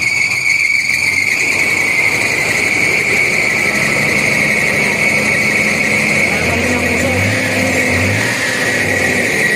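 Diesel truck engine, running on biodiesel made from used cooking oil, held at raised revs, with a steady high-pitched whine over a low engine hum.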